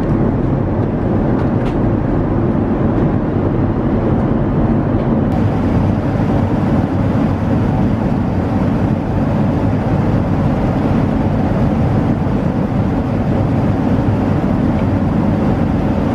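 Steady rushing cabin noise of a Boeing 787-9 airliner in flight, airflow and engine noise heard from a business-class seat. It is mostly deep, and the upper hiss gets a little brighter about five seconds in.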